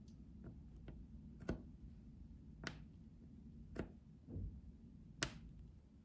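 Close-miked ASMR trigger sounds: light, sharp clicks or taps at irregular intervals, roughly one a second, with one duller low knock about two thirds of the way through.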